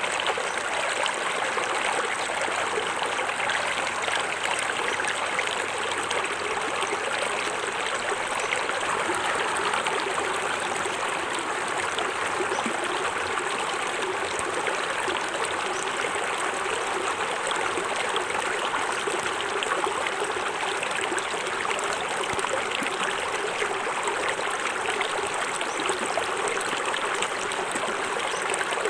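Small forest waterfall: water falling and running over rocks in a steady rush.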